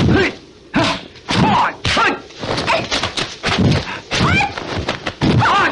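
Kung fu film fight sound effects: a rapid string of punch and kick impacts, several a second, mixed with the fighters' short shouts and grunts.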